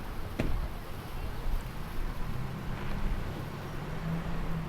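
Engine rumble with wind on the microphone, a sharp knock about half a second in, then a steady low engine hum from about halfway through.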